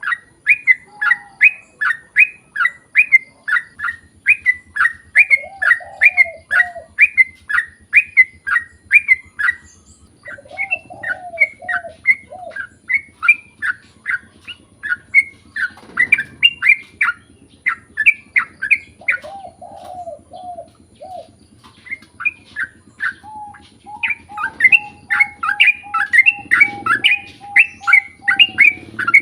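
Yellow-vented bulbul (trucukan) singing a long fast run of repeated chirps, about three to four a second, breaking off briefly twice. Lower warbled phrases of a few notes come in between, and a held whistle sounds near the end.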